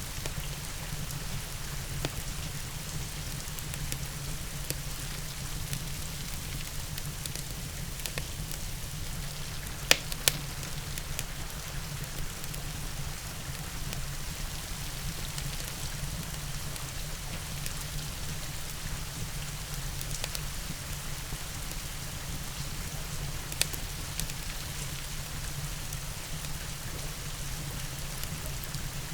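Steady rain hiss mixed with a crackling wood fire, with a low rumble beneath. Two sharp pops come close together about ten seconds in, and another follows later.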